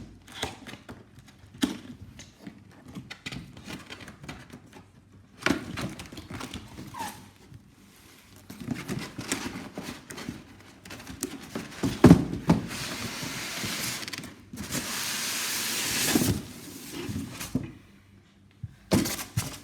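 A large cardboard model box and its packaging being opened and handled: scattered taps and knocks, one loud thump about twelve seconds in, then a few seconds of rustling and scraping.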